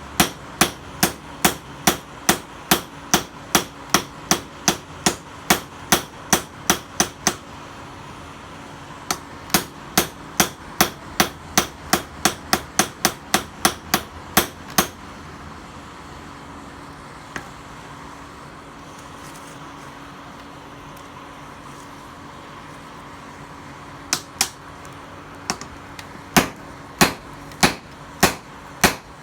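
A hand hammer striking steel on an anvil, forging the knife blade from a tiller blade, in steady runs of about two blows a second. The blows stop for several seconds twice, and a steady hum carries on underneath.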